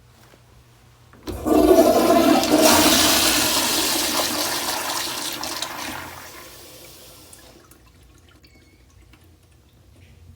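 American Standard Madera toilet flushing: a sudden loud rush of water starting about a second in, easing off over the next five seconds and dying away.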